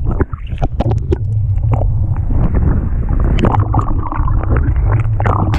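Strong gale-force wind buffeting the microphone with a heavy, steady rumble. Irregular short splashes and knocks of water sound over it.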